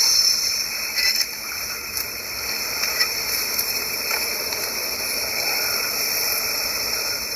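Steady high-pitched hiss, with a few faint clicks about a second apart early on.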